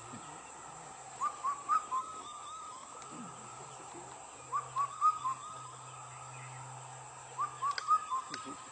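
Indian cuckoo calling its four-note phrase, the song rendered as "kafal pako", three times about three seconds apart.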